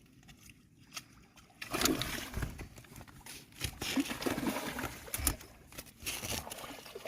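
Water splashing and sloshing in irregular bursts, starting after a short quiet moment.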